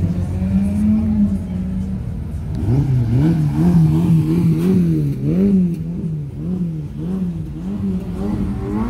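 Ferrari sports car engines running as the cars drive slowly past; from about a third of the way in, the engine note rises and falls over and over, about twice a second.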